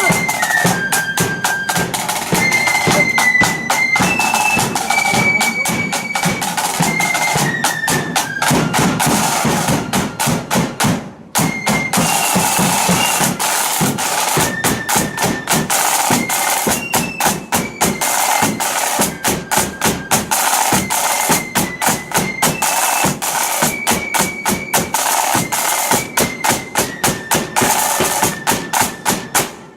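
Blood-and-thunder flute band playing a march: high flutes carry the tune over fast, heavy snare drumming and bass drum. About eight seconds in the flutes drop out and the drums play alone, there is a short break just after eleven seconds, and then the flutes come back in over the drums.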